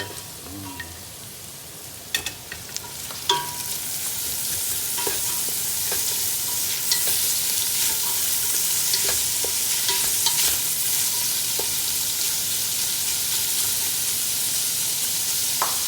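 Chopped onion frying and sizzling in the pot with the garlic, ginger and lemongrass, the sizzle swelling a few seconds in and then holding steady. Scattered clicks of a utensil stirring against the pot.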